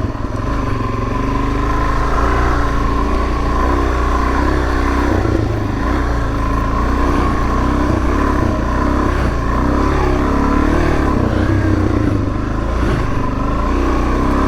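Suzuki DRZ400S dual-sport motorcycle's single-cylinder four-stroke engine running while riding a dirt trail, its pitch rising and falling with the throttle, with wind noise on the bike-mounted microphone.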